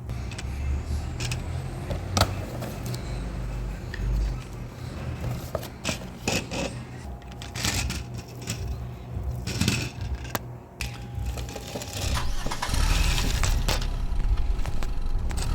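Scattered light clicks and knocks of small plastic parts being handled, over a constant low rumble of handling noise, growing busier about three-quarters of the way through.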